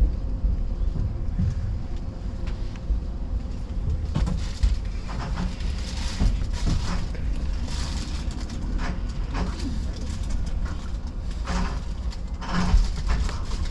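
Keio Inokashira Line electric train giving a steady low rumble, with scattered knocks and clatter.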